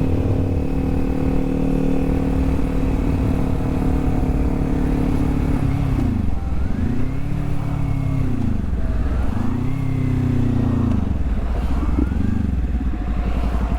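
Kawasaki Z400 parallel-twin engine running at a steady cruise, then its revs dip and climb back three times as the throttle is rolled off and on.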